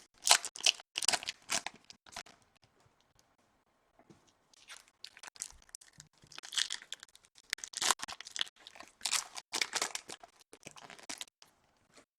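Foil trading-card packs being torn open and their wrappers crinkled, in bursts of tearing and rustling with a quiet gap about two to four seconds in.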